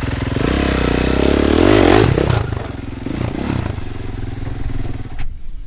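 450 four-stroke dirt bike engine running and revving, rising in pitch to a peak about two seconds in, then dropping back to a lower steady run before cutting off near the end.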